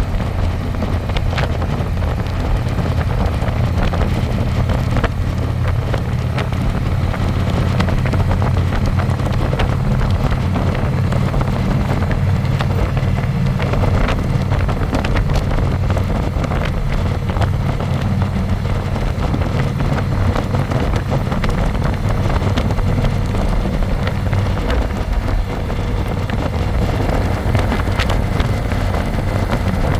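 Harley-Davidson Electra Glide's V-twin engine running steadily at cruising speed, with wind buffeting the microphone.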